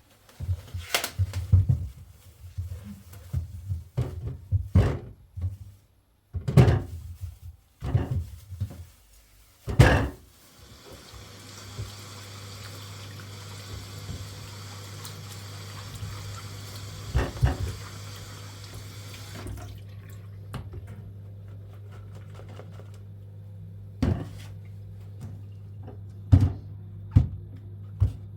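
A string of knocks and clatters as things are handled, then a tap runs into a sink for about nine seconds and is shut off. A steady low hum runs underneath from when the water starts, with a few more knocks near the end.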